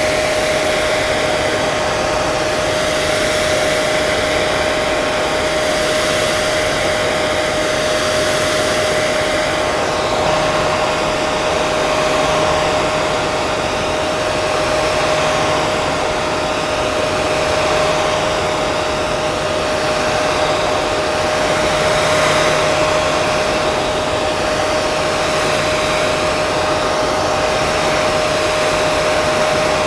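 Hair dryer running steadily: a rushing blow of air with a steady motor whine, and a slow gentle swell in the hiss every few seconds.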